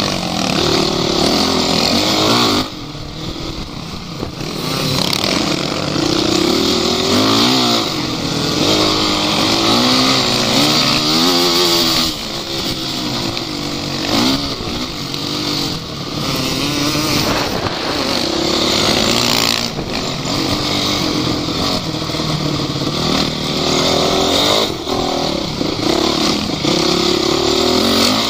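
Off-road vehicle engines revving, the pitch rising and falling again and again, with a few abrupt changes in level.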